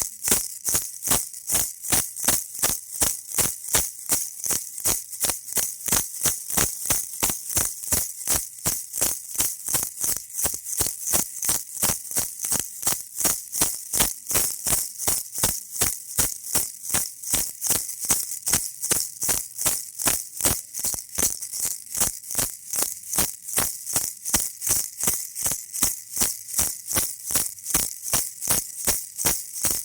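Baby rattle shaken in a steady rhythm, about three shakes a second, each a bright, hissy rattle of beads.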